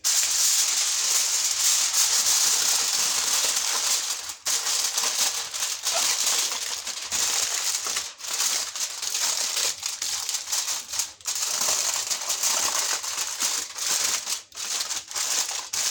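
Sheet of aluminium foil crinkling and rustling continuously as it is folded and pressed around a tray of food, with a few brief pauses.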